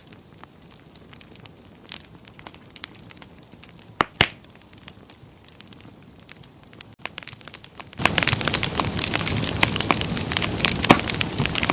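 Wood fire crackling: sparse, quiet pops and ticks, with two sharp loud pops about four seconds in. About eight seconds in, the sound abruptly becomes much louder and denser, with rapid crackling.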